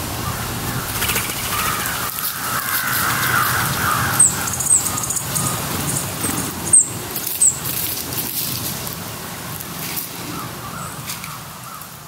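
Woodland ambience with wild birds calling: a wavering mid-pitched call for a few seconds, then five short, very high chirps between about four and seven and a half seconds in. The sound fades out near the end.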